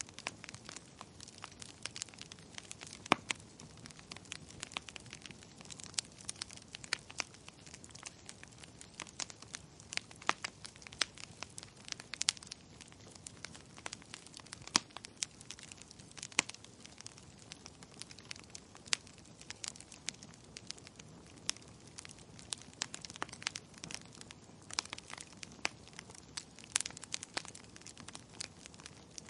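Wood fire crackling: irregular sharp pops and snaps from burning firewood over a soft hiss, a few louder pops standing out.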